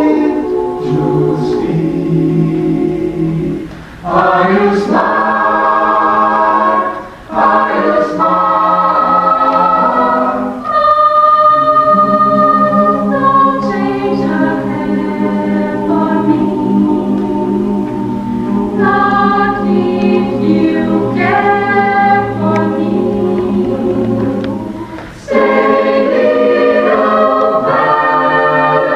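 Choir singing in parts, holding sustained chords, with brief breaks between phrases about four, seven and twenty-five seconds in.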